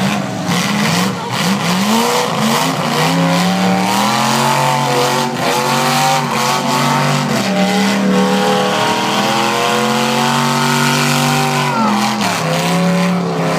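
Several V8 demolition derby cars revving hard. The pitch climbs and falls over and over as the engines are floored and eased off, loud throughout.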